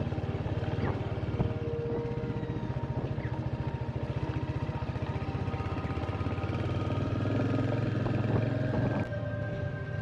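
Royal Enfield Hunter 350's single-cylinder engine running steadily while riding, its firing strokes making a rapid, even beat. It grows a little louder from about six seconds in.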